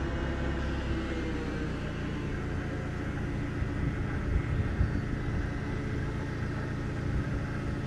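Forklift engine running steadily as it lifts a load. A few louder clunks come about four to five seconds in.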